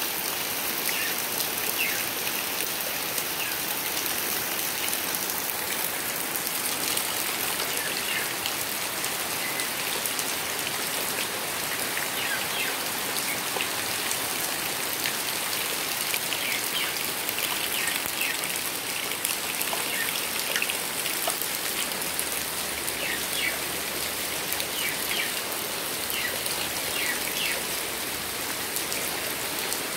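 Heavy rain falling steadily on a garden pond and wet concrete paving: a dense, even hiss of drops striking water and hard ground.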